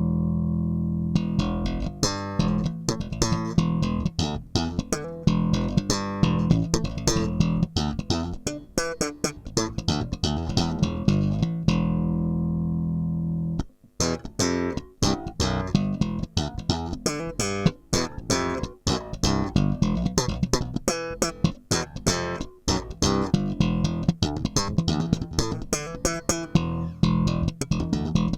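Lowenherz Dagger 4.1 four-string electric bass with a single Seymour Duncan MusicMan-style humbucker, played unaccompanied: a held note to open, then a busy line of short, sharply attacked notes. Around the middle a long note rings out for about two seconds and stops briefly before the fast playing resumes.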